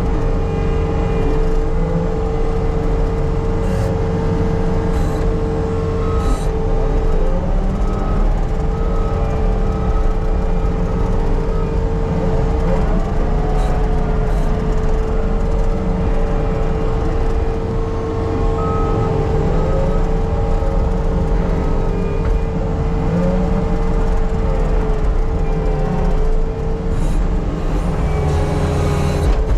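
Skid steer's diesel engine running steadily under load while grading dirt, with a steady high whine over it. The pitch rises and falls briefly a few times.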